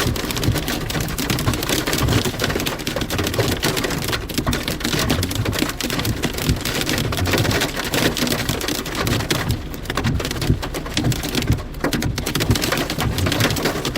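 Heavy rain mixed with snow falling, with a dense steady patter of drops hitting surfaces and a low rumble beneath.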